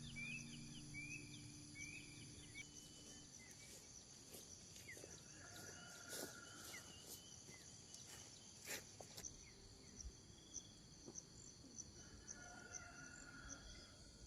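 Faint, steady chirring of crickets and other insects, with a few soft clicks in the middle.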